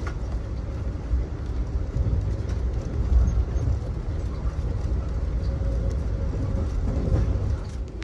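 Steady low rumble of an Amtrak Auto Train passenger car rolling along the track at speed, heard from aboard.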